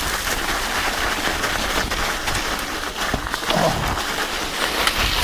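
Studded mountain bike tyres rolling over an ice-covered trail, a steady crunching hiss full of fine ticks, with the bike rattling.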